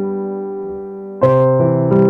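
Background piano music: a held chord fading away, then a louder new chord struck about a second in and another near the end.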